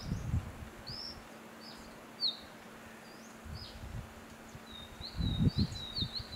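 Grey bushchat giving short, high chirps at irregular intervals, with a quicker run of chirps near the end. Low rumbling bursts come in at the start and again about five seconds in, where they are the loudest sound.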